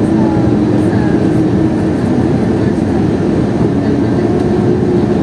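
Steady cabin noise inside an Airbus A321 airliner: the constant rush of jet engines and airflow.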